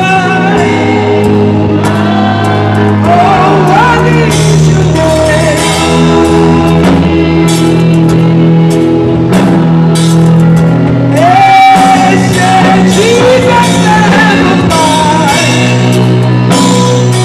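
Gospel choir singing with a live band, over sustained bass notes and a steady beat, with sliding melody lines above.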